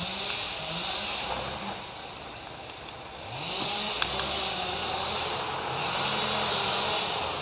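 T-40 wheeled tractor's diesel engine running under load, its speed rising and falling. It eases off about two seconds in, then revs back up a second later.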